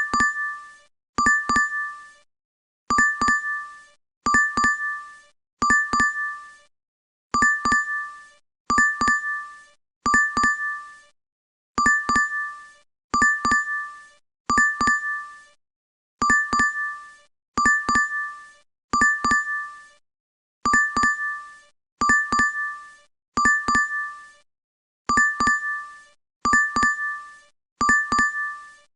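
DoorDash app notification chime playing on a loop: a short bright ding of two or three quick notes, repeated about every one and a half seconds, with a slightly longer pause after every third.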